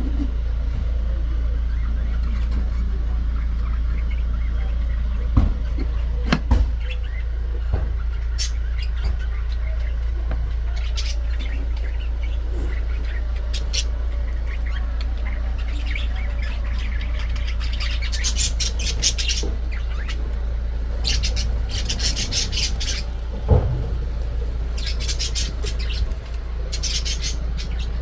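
Pet lovebirds chattering and squawking in bursts of rapid high chirps, busiest in the second half, over a steady low rumble, with a few sharp knocks.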